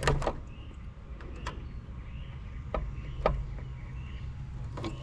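Several light, sharp clicks and taps a second or so apart, from hands working on wiring and capacitor terminals for a condenser fan motor, over a steady low hum.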